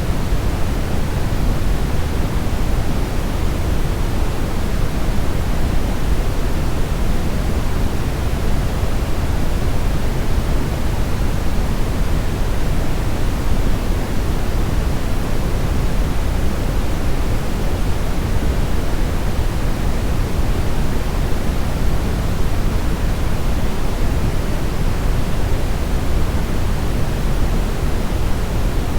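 Brown noise: a steady, deep rushing hiss, strongest in the bass and unchanging throughout.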